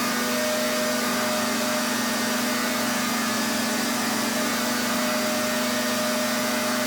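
Pressure washer running steadily: a continuous hiss of spray over an even motor hum.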